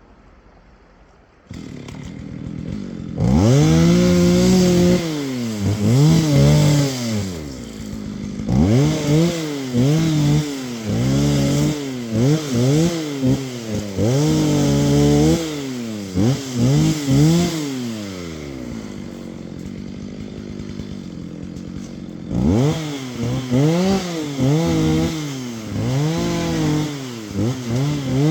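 Two-stroke chainsaw engine coming on about a second and a half in, then revved up and down over and over, with a steadier idle for a few seconds past the middle before the revving starts again.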